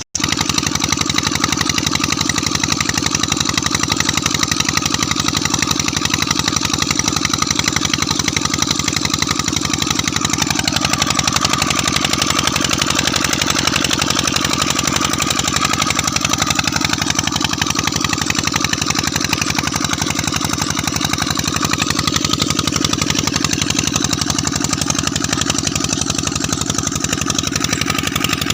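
Peter diesel engine running steadily at an even, unchanging beat.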